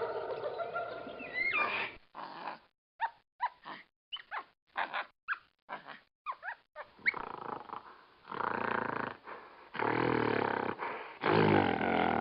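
Animal calls: a run of short calls with quick pitch glides, then several longer growls or roars, the loudest near the end.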